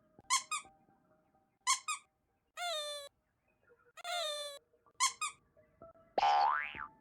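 High squeaky cartoon-style chirps, short calls falling in pitch, some in quick pairs, followed about six seconds in by a louder rising glide like a boing sound effect.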